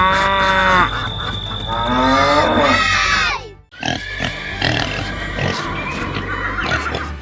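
Farm animal calls, two long squeal-like cries in the first half, over background music. The sound breaks off briefly just before the middle, and busier music with animal noises follows.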